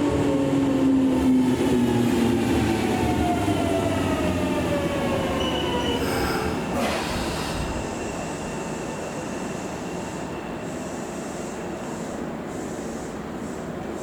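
Electric commuter train braking into a station: its motor whine glides steadily down in pitch as it slows. The whine fades out about six seconds in, followed by a short hiss of air as the train comes to a stop, then the steady noise of the halted train.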